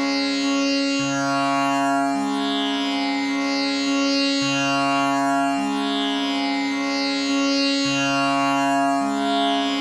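Tanpura drone tuned to C sharp (A = 440), its strings plucked one after another in an unbroken repeating cycle so the ringing, buzzing notes overlap without a gap. The lowest note switches back and forth between two pitches about once a second.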